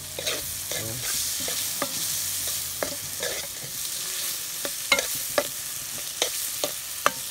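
Chopped onion, carrot and tomato frying with a steady sizzle in a metal pot while a metal spoon stirs them, clinking and scraping against the pot's sides over and over.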